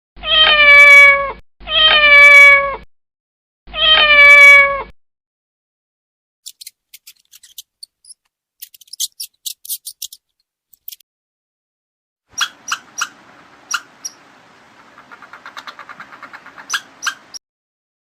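Domestic cat meowing three times, each meow about a second long and sliding slightly down in pitch. These are followed by quieter scattered clicks and a faint rhythmic hissing.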